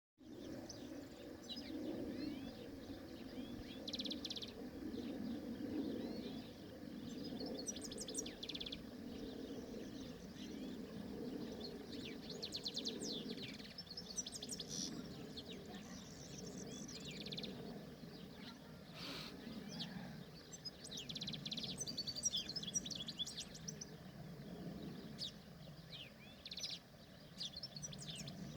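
European goldfinch singing: rapid twittering phrases of quick chirps and trills in repeated bursts with short pauses between them, over a steady low background noise.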